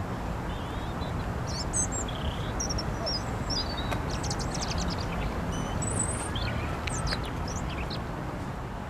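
European robin singing: short, varied, high thin phrases with quick glides, coming in bursts every second or so, over a steady low background rumble.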